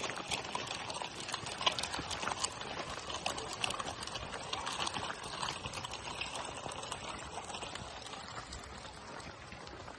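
Footsteps of a person walking on a path, a dense run of small crunching clicks that eases off slightly towards the end.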